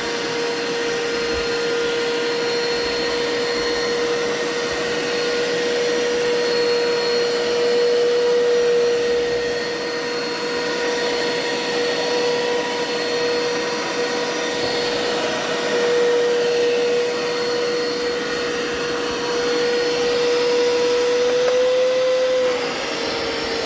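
Hoover Power Scrub carpet cleaner running with a steady whine from its motor. The pitch rises briefly and then drops a little near the end.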